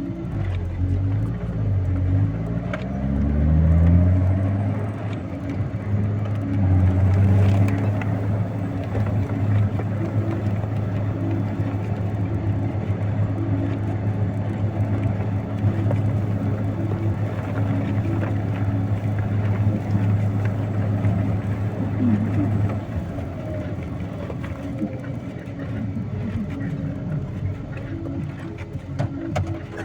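Heavy vehicle's engine running under load. Its pitch rises several times over the first few seconds as it revs and shifts, then holds steady.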